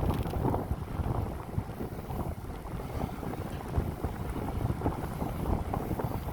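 Strong wind buffeting the microphone of a moving bicycle, a rough, fluttering rumble: the rider is pushing into a strong headwind that holds his speed down.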